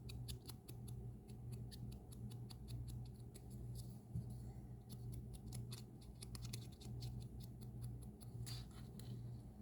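Faint, quick, irregular tapping and scratching of a foam ink dauber dabbing ink onto small die-cut cardstock pieces, over a steady low hum.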